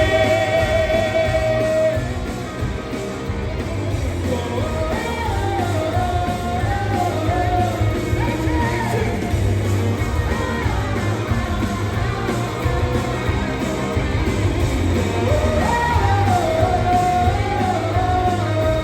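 Live pop-rock band music with singing: a sung note held with vibrato at the start, then melodic vocal lines over the full band.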